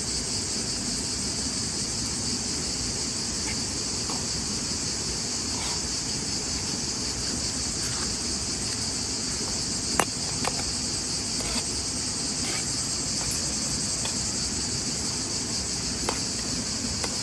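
Steady, continuous chorus of crickets, with a few sharp clicks, the loudest about ten seconds in.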